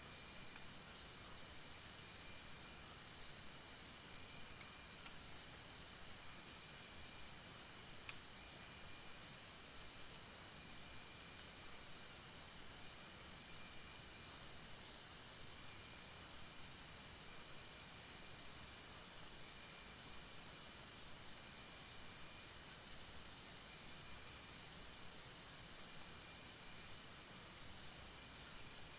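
Night insect chorus of crickets trilling steadily in a high, finely pulsed band, with faint higher chirps scattered through it over a soft hiss.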